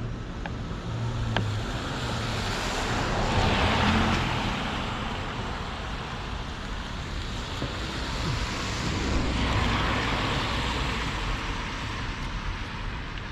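Two vehicles passing by on the street one after the other, their tyre and engine noise swelling and fading away, the first loudest about four seconds in and the second around ten seconds in, over a steady traffic rumble.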